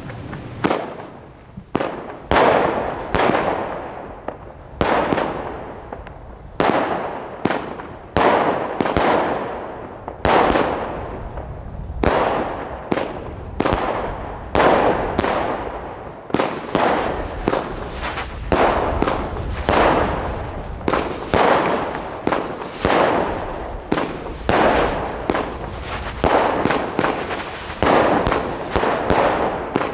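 Comet Black Cat Neon Sky Battle 36-shot firework battery firing shot after shot, each a sharp bang trailing off in a fading crackle. The shots come about one a second, a little faster after the middle.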